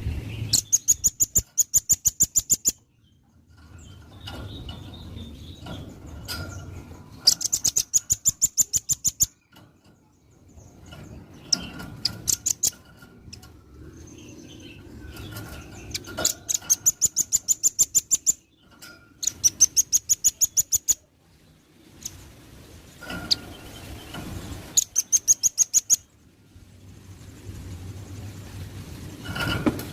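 Velvet-fronted nuthatch singing vigorously: five bursts of rapid, high-pitched trills, each of sharp notes at about ten a second and lasting around two seconds, separated by short pauses.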